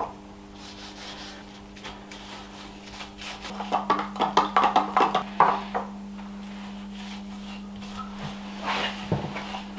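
Linseed oil finish being rubbed onto an oak table base: a quick run of short rubbing strokes on the wood between about three and six seconds in, over a steady low hum.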